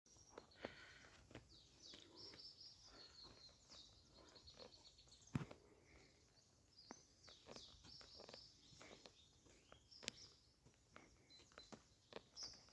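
Faint chirping of small birds: short high notes in quick runs throughout. Scattered clicks run under it, with a sharper click about five seconds in and another about ten seconds in.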